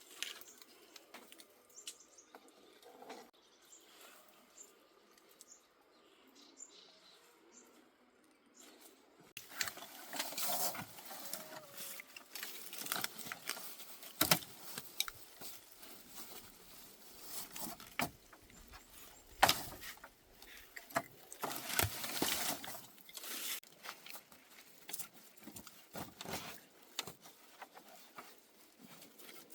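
Irregular rustling, scraping and sharp knocks of hand work, with a few louder knocks among them. The sound starts about a third of the way in, after a quiet stretch holding only faint ticks.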